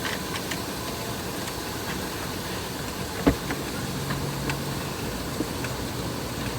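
Steady hum of a car's engine idling, heard from inside the cabin, with scattered small clicks and one sharp click a little over three seconds in.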